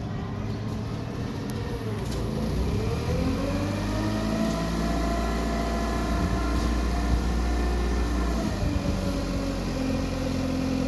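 Forklift engine running, revving up about two seconds in, holding the higher speed for several seconds, then dropping back toward idle near the end, over a steady low rumble.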